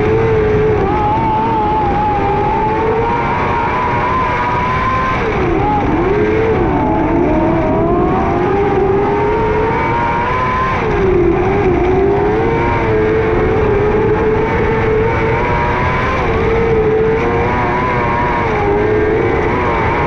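600cc micro sprint car engine running at high revs through a race, its pitch sagging briefly a few times as it backs off, then climbing again.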